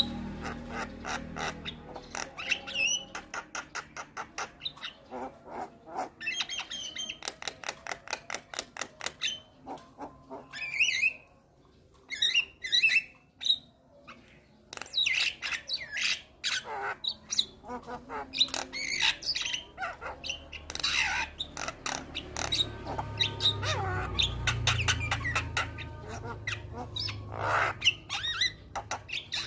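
Javan myna calling busily in a rapid mix of rattling clicks, harsh squawks and short whistled notes, with a brief lull about halfway through. A low hum joins in over the last few seconds.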